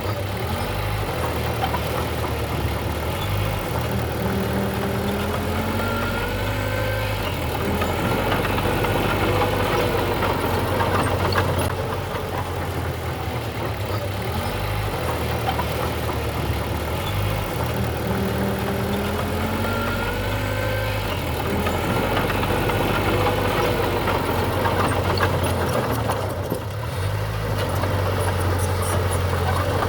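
Diesel engine of earthmoving machinery running steadily under load, with a whining tone that glides up and down twice.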